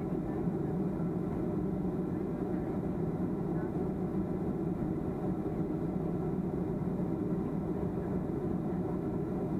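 Steady cabin noise inside a Boeing 737-300, a low, even rumble from its CFM56-3 jet engines and the airflow, unchanging in level.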